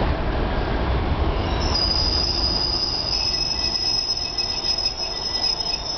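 Keikyu line train running through the station with a low rumble, and from about two seconds in a high, steady squeal from its wheels.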